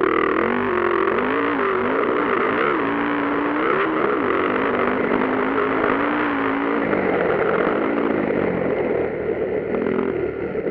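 Motocross dirt bikes racing, one engine's pitch rising and falling again and again as the rider works the throttle and shifts, over the steady noise of other bikes.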